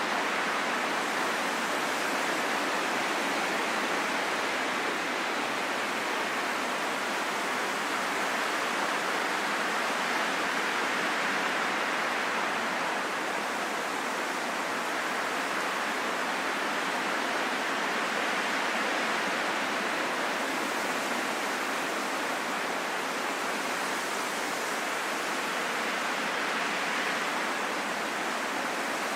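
Steady wind, an even rushing hiss that swells and eases slowly every several seconds, with no low rumble.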